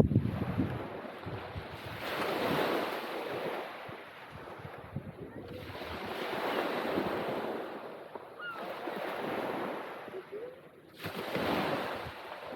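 Sea waves breaking on the beach: three swells of surf about four to five seconds apart, with some wind on the microphone.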